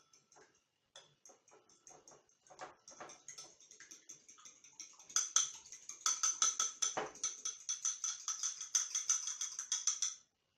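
An egg being whisked in a bowl with a utensil: quick, regular clinks of the utensil against the bowl, with a light ringing. The strokes start sparse, become faster and louder about halfway through, and stop just before the end.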